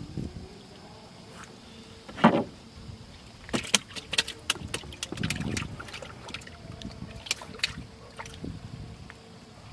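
Clatter and sharp knocks from work on a small fishing boat, with one loud thump about two seconds in and a run of quick clicks and knocks in the middle, over a faint steady hum.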